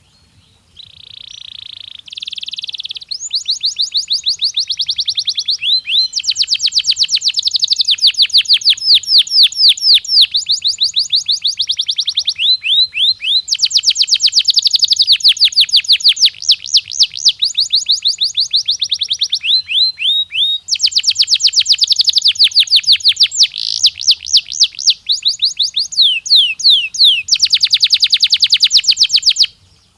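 Canary singing one long song of rapid high trills: runs of quickly repeated notes follow one another with hardly a pause, beginning softly about a second in and breaking off just before the end.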